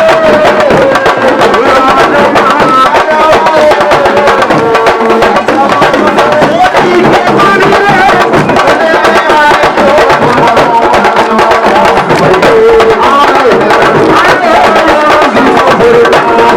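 Loud music of fast hand drumming with voices singing or chanting over it, steady throughout.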